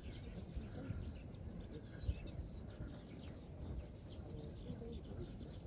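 Small birds chirping over and over in quick short calls, over a steady low outdoor rumble, with a single soft knock about two seconds in.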